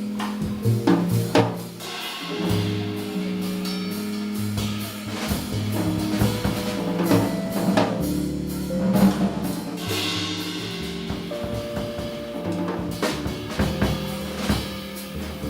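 Live instrumental jazz-style band: a drum kit playing snare and bass drum hits under sustained piano chords and a moving low line.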